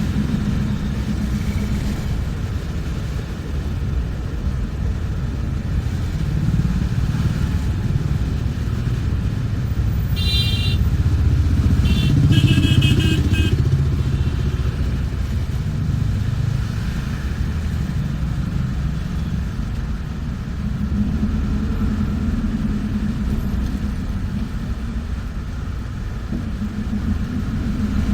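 Bus engine and road rumble heard from inside the moving bus, steady and deep. Brief high-pitched tones sound twice, about ten and twelve seconds in.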